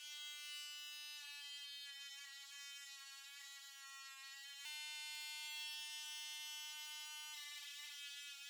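Small high-speed electric rotary tool with a wire wheel running with a steady high-pitched whine, used to clean rust and grime from threads. Its pitch shifts slightly about a second in and again near the end, with a single click near the middle.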